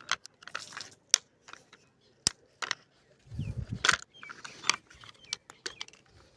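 Small plastic toy tractor parts clicking and knocking in the hands as the front wheels are pushed into place on the upturned tractor: a scatter of short, sharp clicks with rustling handling noise between them.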